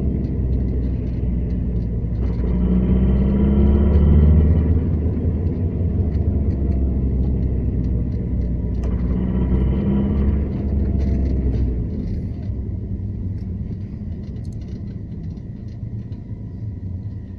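Renault Laguna II 1.9 dCi four-cylinder turbodiesel running under load, a deep rumble with extraneous noise that swells twice. These are sounds that, by the owner's account, come only under load and not when simply revving. The deep rumble drops away about twelve seconds in.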